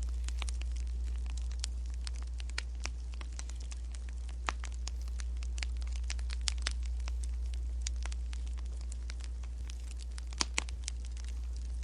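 Wood fire crackling, with irregular sharp pops and snaps, a few louder ones about four and a half seconds in and near the end, over a steady low rumble.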